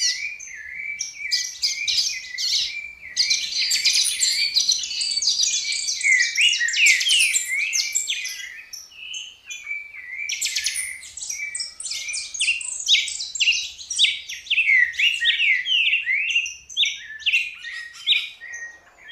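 Many small birds chirping and calling at once in a busy, overlapping chorus of quick high chirps and short sweeping notes, thinning out briefly about halfway through before picking up again.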